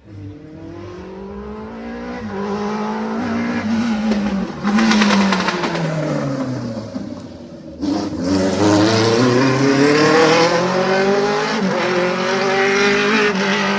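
Rally car engine at full throttle passing close, its pitch climbing and dropping with gear changes. The note dips briefly just before eight seconds in, then picks up loudly again.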